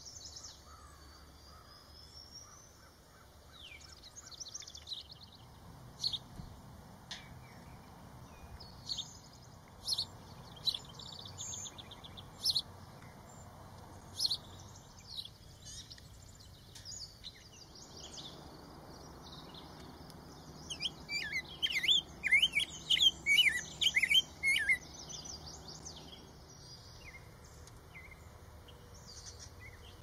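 Wild songbirds calling: scattered short chirps through the first half, then a loud run of quick chirps about two-thirds of the way through. A steady high insect drone fades out in the first second.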